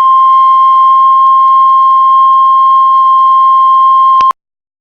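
Heart monitor flatline: one long, steady high beep that cuts off suddenly after about four seconds, the tone a monitor gives when no heartbeat is detected.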